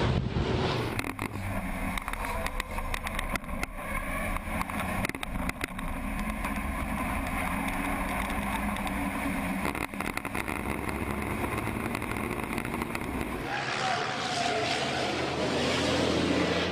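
Racing trucks' diesel engines running at speed: a steady engine drone with frequent sharp clicks and rattles. About three-quarters of the way through, it gives way to a louder, rushing engine sound.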